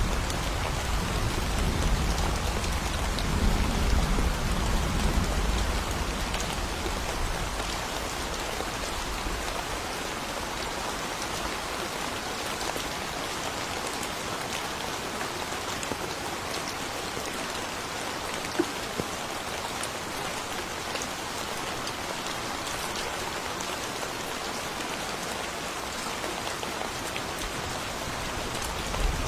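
Steady rain falling, an even hiss throughout. A low rumble of thunder dies away over the first several seconds.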